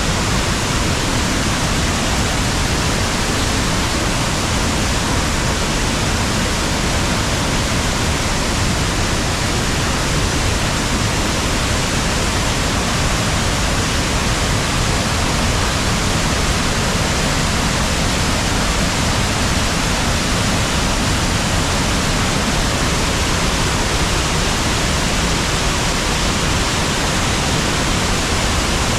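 Steady rushing of water at a river waterfall: an even, unbroken hiss with no distinct splashes or drops standing out.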